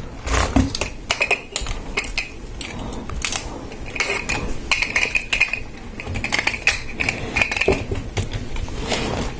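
Lego Technic plastic parts clattering and clicking as a large assembly is handled and moved into place, with irregular sharp clicks and a few short scraping stretches.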